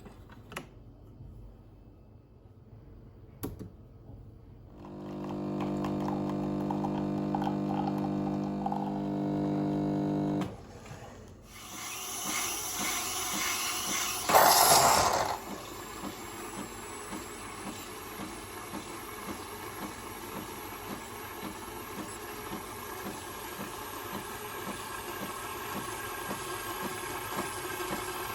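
A small appliance motor hums steadily for about five seconds and stops. Then a rushing, water-like noise starts, with a short louder burst near the middle, and runs on steadily.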